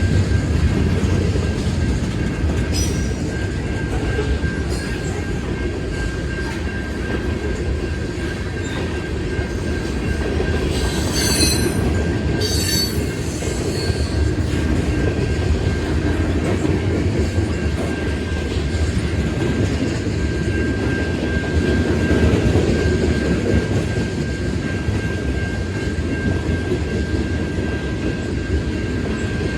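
CN freight train cars rolling through a road crossing with a steady rumble and wheel clatter, and two brief wheel squeals about eleven and twelve seconds in. A steady high tone runs underneath, from the crossing signal's bell ringing while the train passes.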